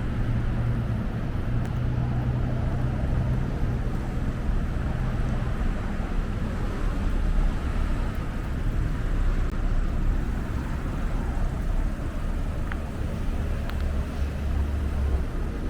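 Road traffic: a steady rumble of vehicle engines and tyres, with a low engine hum that fades about five seconds in and another deeper hum near the end.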